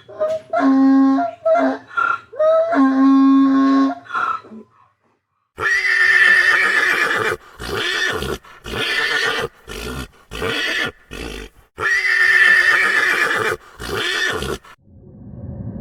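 A few short pitched animal calls, then a donkey braying: a long series of loud, harsh hee-haw phrases that starts about five seconds in and stops shortly before the end.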